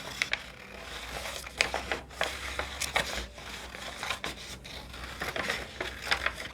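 Scissors cutting a curving line through a sheet of dyed paper: a run of short, sharp snips with the paper rustling as it is turned between cuts.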